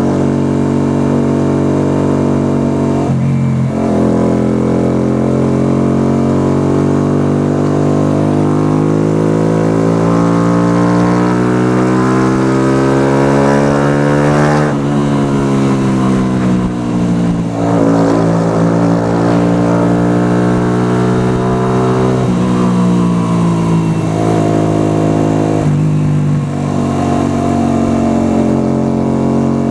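Yamaha YBR125's single-cylinder four-stroke engine under way: a brief dip about three seconds in, then the engine note rises steadily for about ten seconds as it accelerates, drops sharply about halfway through, and runs at fairly steady revs with a few shifts in pitch near the end.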